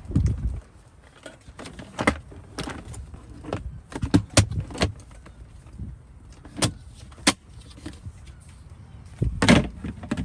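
Irregular sharp knocks and clatters, more than a dozen separate hits, with a heavier thump at the start and a quick cluster of hits near the end.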